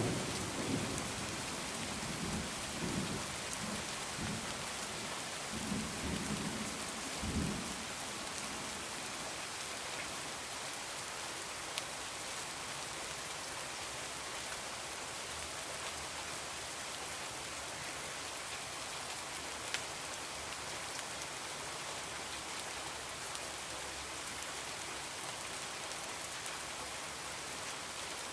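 Heavy rain falling steadily, with low thunder rumbling on and off for the first several seconds before it dies away. Two single sharp ticks stand out over the rain later on.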